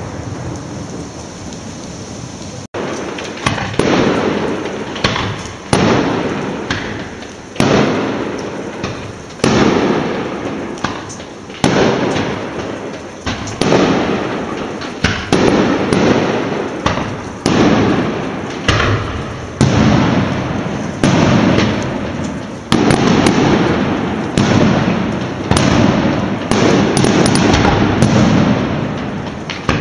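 A long series of firework bangs, roughly one every one and a half to two seconds, each sudden and fading out before the next.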